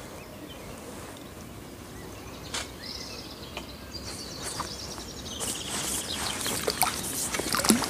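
A songbird sings a rapid warbling phrase from about three to six seconds in, over steady lakeside background noise. Scattered clicks and knocks come from the pole and landing net being handled while a fish is played, the sharpest near the end.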